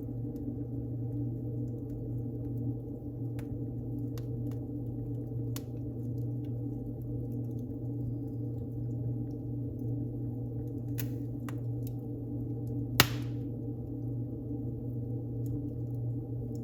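Wood fire burning in a fireplace: a steady low rumble with scattered crackles, and one loud pop near the end.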